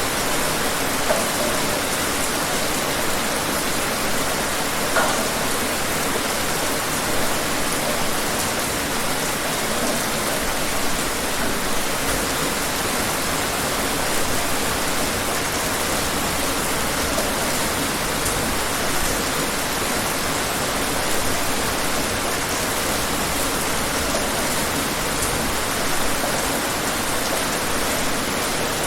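Steady rain falling, an even wash of noise with a few sharper single drops standing out now and then.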